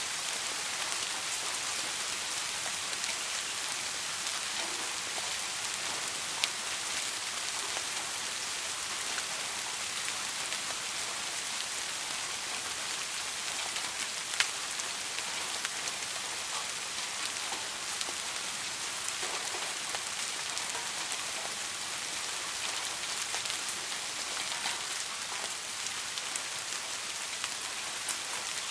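Steady soft rain falling, an even hiss of many drops, with a few single louder drop hits standing out, the clearest about six seconds and fourteen seconds in.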